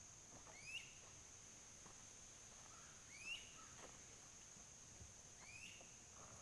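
Faint outdoor ambience: a steady high-pitched insect drone, with a bird giving a short rising call three times, about every two and a half seconds.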